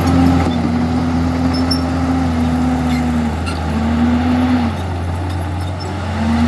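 Komatsu D51EX bulldozer's diesel engine running steadily, its note dipping in pitch twice and picking up again as the load on it changes.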